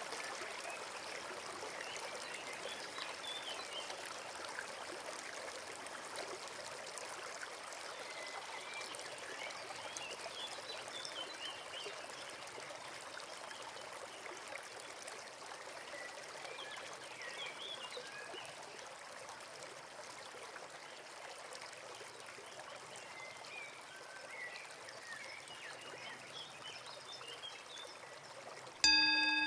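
Forest stream running steadily, with faint high chirps now and then. Near the end a loud ringing chime strikes suddenly and slowly fades.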